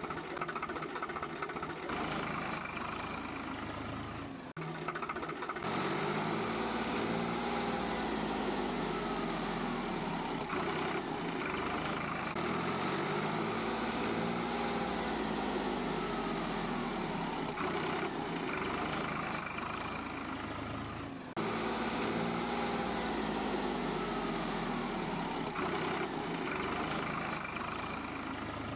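A steady engine-like motor sound whose pitch rises and falls in slow, repeating swells, with a couple of abrupt changes that sound like edits.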